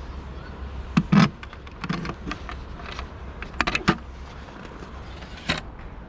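Several sharp clicks and knocks from a van's electric heater cable and plug being handled and connected to a parking-space outlet, over a low steady rumble.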